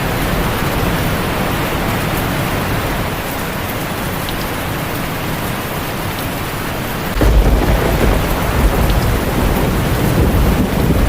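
Heavy rain falling steadily on a tin roof, with a low thunder rumble breaking in suddenly about seven seconds in and rolling on.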